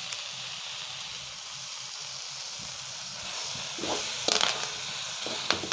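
Soya meat chunks, tomato and curry leaves sizzling steadily in oil in an aluminium kadai, the soaking water cooked off so the mix is frying in the oil. From about four seconds in, a ladle scrapes and knocks against the pan in short clicks as the mix is stirred.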